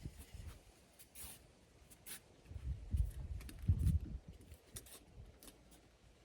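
Foam board insulation being handled and worked by hand in a cramped space: scattered scrapes and light clicks, with a few dull low thumps around the middle.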